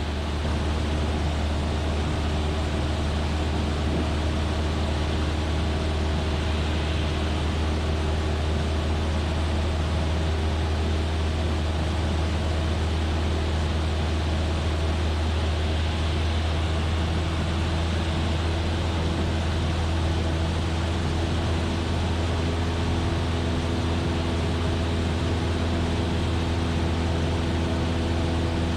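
Cessna 172F's six-cylinder engine and propeller droning steadily in flight, a constant low hum with a hiss of air over the top.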